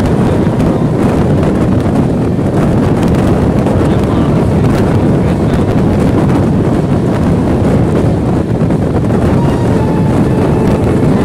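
Steady rumble of a moving passenger train heard from on board, with wind buffeting the microphone.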